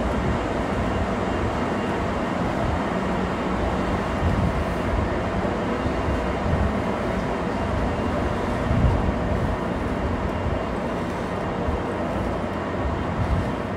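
Steady hum and rush of electric trains standing at an underground station platform, their onboard equipment running.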